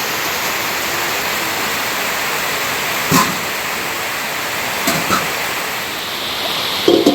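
Steady rushing of water, heavy rain or running water, with a few brief short sounds about three and five seconds in.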